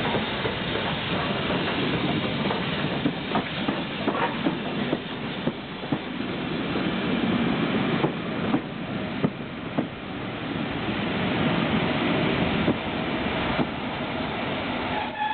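Passenger coaches of a train hauled by BR Standard Class 4 tank locomotive 80151 rolling past while drawing in to stop. There is a steady rumble, and the wheels click irregularly over the rail joints.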